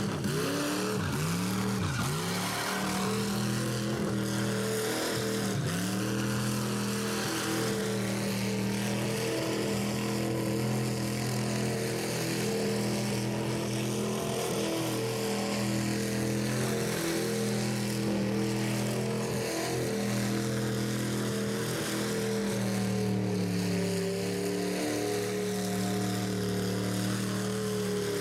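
Rat rod engine held at high, steady revs in a burnout, with a continuous hiss of spinning tires over it. The pitch dips briefly a few times early on and shifts slightly once near the end.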